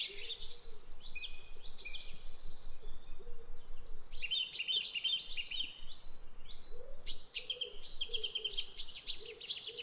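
A chorus of small birds chirping and twittering in quick, overlapping calls, thinning briefly in the middle and busy again later, with a fainter, lower call repeating underneath.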